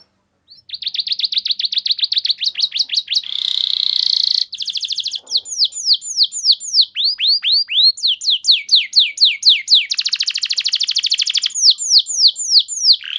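Domestic canary singing a long, unbroken song from about half a second in. The song is a chain of rapidly repeated phrases: fast trills, two buzzy rolling trills, and runs of sharply falling whistled notes.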